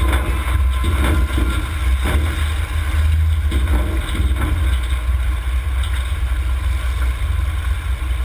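Demolition derby cars' engines running, under a heavy steady rumble of wind on the microphone, with a few brief faint knocks.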